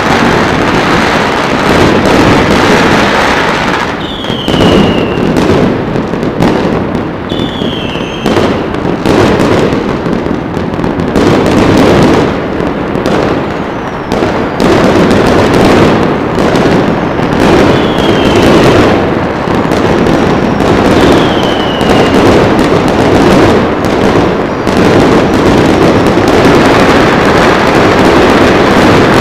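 Dense, continuous barrage of fireworks and firecrackers going off all across a city, crackling and banging without pause. Four short falling whistles stand out above the din.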